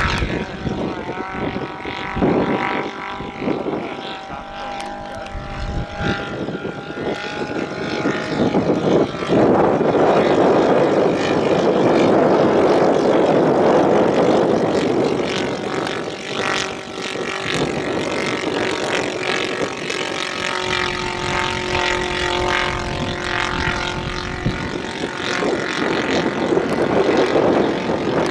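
Radio-controlled scale model aircraft flying, its engine and propeller note shifting in pitch as it moves. It grows louder for several seconds in the middle.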